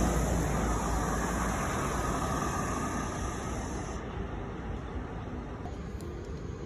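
Road traffic noise from a passing vehicle, loudest at the start and slowly fading as it moves away. A steady high-pitched hiss stops abruptly about four seconds in.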